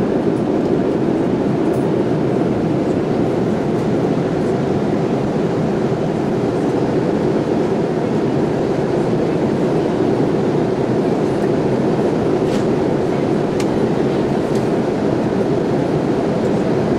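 Steady rumbling cabin noise inside a Boeing 787-8 Dreamliner, engine and airflow noise holding an even level with no change.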